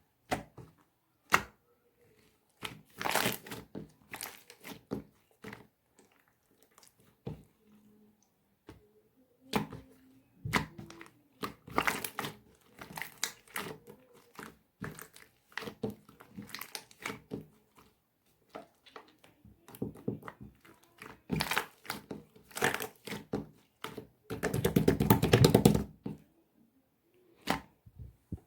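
Hand-played rainbow mixed slime being squeezed, folded and pressed: irregular wet clicks, pops and crackles, with a dense run of crackling near the end.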